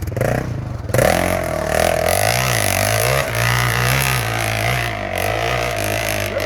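Dirt bike engine revving, its pitch rising and falling, louder from about a second in.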